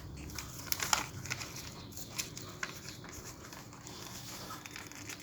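A sheet of paper being handled and folded into a paper airplane, rustling and crinkling with scattered sharp little crackles as the creases are pressed.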